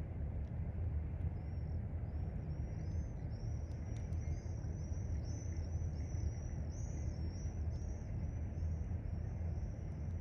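Steady low rumble of distant vehicles, with a small bird singing a rapid run of high, arching notes from about a second in, and a few faint clicks.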